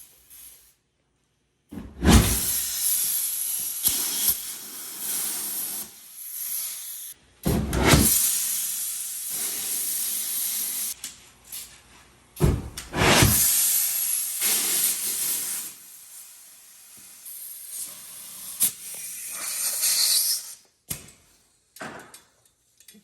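Repeated loud hissing of pressurised gas being released. There are three big bursts of a few seconds each, each starting with a thump, and softer hisses between them.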